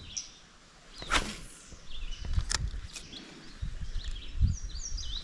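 A fishing rod being cast swishes through the air about a second in, followed by low, uneven handling noise and a couple of sharp clicks. Small birds chirp over the last second or so.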